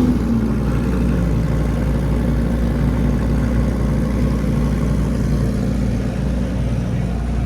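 A car engine idling steadily, its pitch settling down from a rev in the first second.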